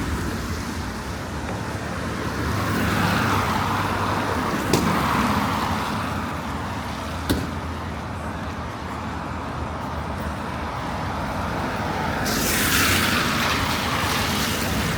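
Road traffic on a wet road: cars passing with tyre hiss that swells several times, the loudest pass near the end, and two sharp clicks in between.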